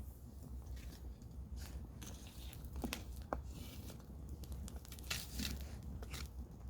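Wood campfire crackling, with irregular snaps and pops over a low steady rumble.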